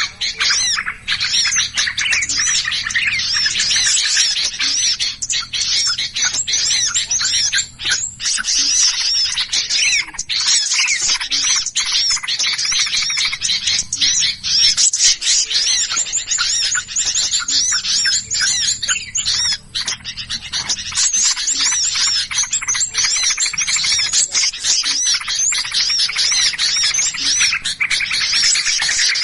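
A dense, agitated chorus of many small songbirds chirping and chattering over one another without pause. This is a bird-luring ('burung ribut') call recording meant to draw in birds of all kinds.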